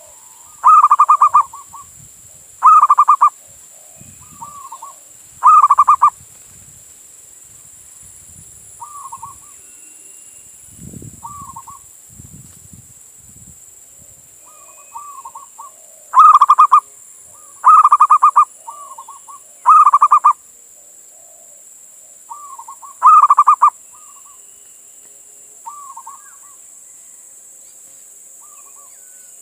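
Male zebra dove (perkutut) cooing: loud, rapidly pulsed coos of about half a second each, repeated in bouts, with softer short notes between them. There is a pause of about ten seconds midway. A steady faint high hiss runs underneath.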